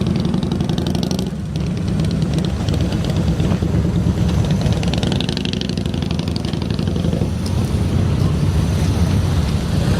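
Motorcycle engine running steadily, with a rapid, even beat of firing pulses.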